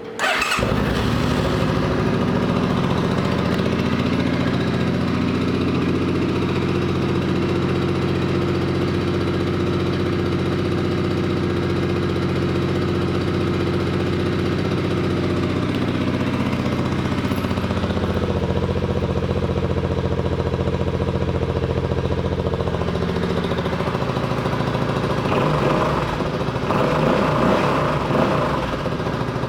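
Suzuki Boulevard C50T's 805 cc V-twin starting up and idling steadily, with a few light revs near the end.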